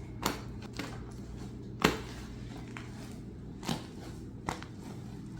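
Large slime being mixed by hand with instant snow powder: five short sharp clicks over a low steady hum, the loudest about two seconds in.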